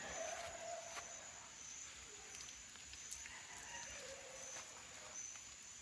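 Faint background ambience: a steady high insect drone, with a few faint ticks and short low calls.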